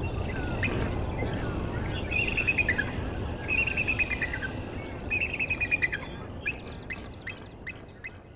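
A bird calling in three short chattering phrases of rapid notes that fall in pitch, followed by scattered short chip notes, over a steady low outdoor rumble.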